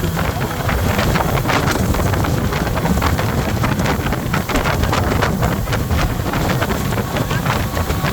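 Speedboat running at speed across open water, with its engine and the rush of water under the hull, many short sharp slaps throughout, and wind buffeting the microphone.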